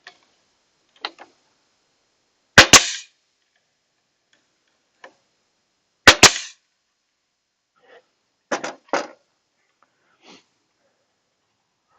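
Nail gun firing two nails, about three and a half seconds apart, each shot a sharp double crack, to fix a small chimney piece on a wooden birdhouse. Softer knocks follow, two close together about two seconds later.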